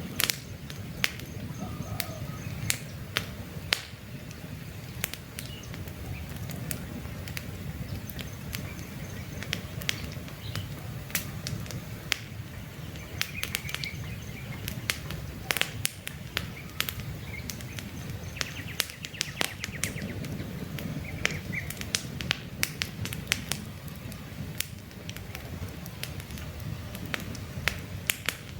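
Wood campfire burning: sharp, irregular crackles and pops over a steady low rumble of the flames, with a few faint bird chirps now and then.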